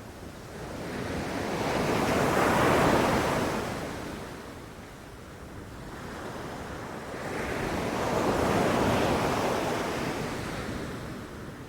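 Ocean waves breaking on a beach: two waves swell, crash and wash out, peaking about three seconds in and again about nine seconds in.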